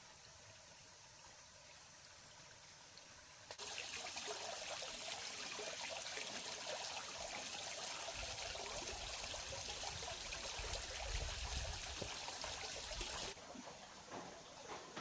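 Water trickling and running, starting abruptly about three and a half seconds in and stopping suddenly near the end. Before it there is only a faint hiss with a steady high whine.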